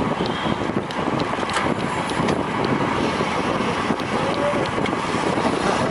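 Steady wind rushing over the camera microphone of a road bike ridden at race speed, with a few faint clicks.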